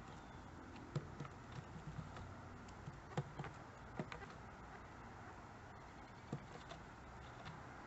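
Scattered, irregular single taps of a pileated woodpecker pecking at wood, a few at a time with pauses between, over a steady faint background hiss.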